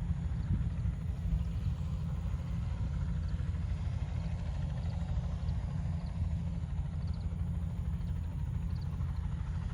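Crop-spraying helicopter running steadily, heard as a constant low rumble of rotor and engine.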